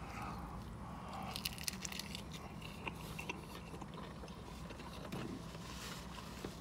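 Close-up biting, chewing and crunching of a toasted bacon, egg and cheese sandwich. Faint crunches come throughout and are densest a second or two in.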